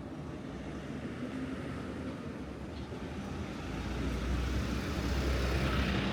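A vehicle passing over steady background noise. Its rumble swells from about halfway through and peaks near the end.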